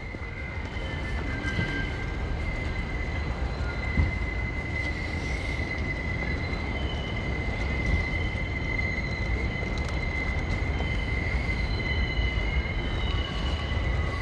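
Wind buffeting the microphone, with a steady high-pitched squeal and fainter, shifting high tones above it.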